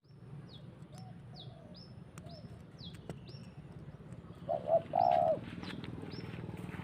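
Birds calling: a run of short chirps that fall in pitch, about two a second, with a louder cooing call about four and a half seconds in. A steady low hum lies underneath.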